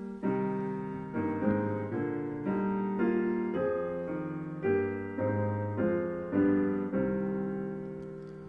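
Piano playing a hymn introduction: a slow series of block chords, the last one held and fading away.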